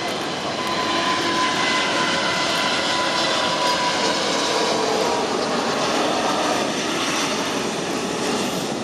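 Four turbofan engines of an Airbus A380 at take-off thrust: a steady jet roar with a faint whine over it in the first half.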